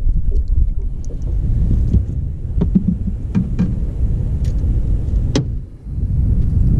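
Wind buffeting the microphone as a steady low rumble, with a few sharp clicks and knocks scattered through it, the clearest about five seconds in.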